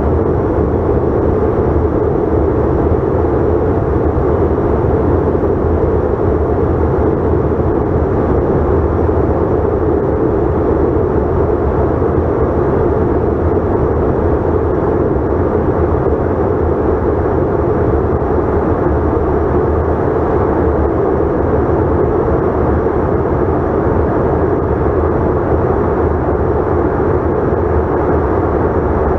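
Steady cabin noise inside a CRJ900 regional jet in flight: an even, unchanging hum from its rear-mounted turbofan engines and the airflow over the fuselage, strongest in the low and middle range.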